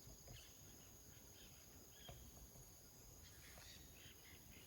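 Near silence outdoors: a faint, steady, high-pitched insect drone, with a few faint short chirps.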